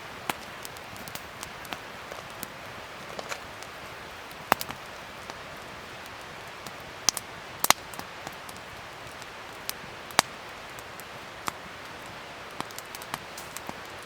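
Wood fire crackling, a steady hiss broken by irregular sharp pops and snaps, with a few louder cracks scattered through.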